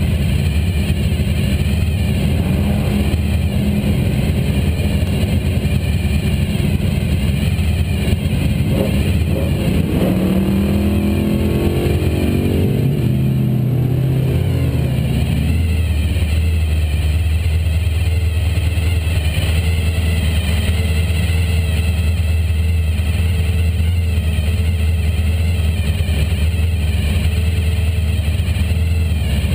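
Drag car engine idling loudly right under the camera, a steady low drone. Between about eight and fifteen seconds in, an engine sound sweeps up and down in pitch over it.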